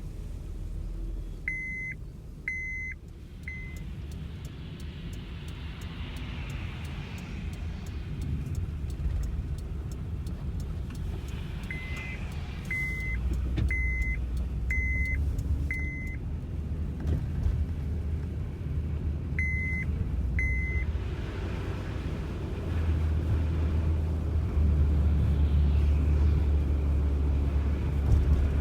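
Motor vehicle engine running with a steady low rumble that grows louder toward the end. A reverse warning beeper sounds in short runs of high beeps about one a second: two near the start, five in the middle and two more after.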